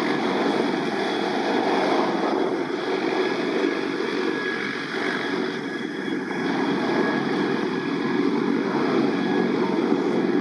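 Sikorsky CH-53K King Stallion heavy-lift helicopter running, a steady noise of its rotor and three turboshaft engines that comes in suddenly at the start.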